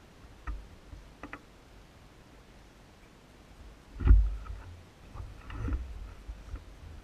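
A few light clicks, then a heavy low thump about four seconds in, followed by more knocking and low rumbling.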